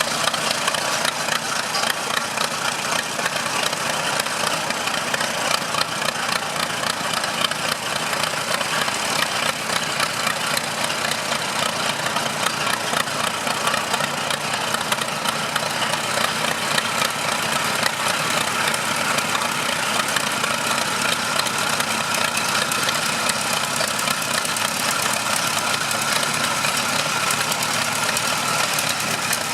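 Allis-Chalmers farm tractor engine running steadily at a low, even speed, with no change in pace.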